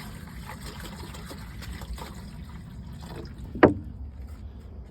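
Fresh water being poured from a container into the cats' water dish, a steady trickle, with one sharp knock a little past three and a half seconds in.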